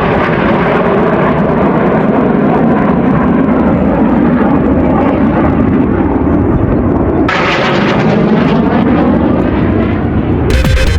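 Loud jet engine roar of a military jet aircraft flying past during an air show display, with a cut about seven seconds in to another pass whose sound sweeps in pitch as it goes by. Electronic dance music comes in just before the end.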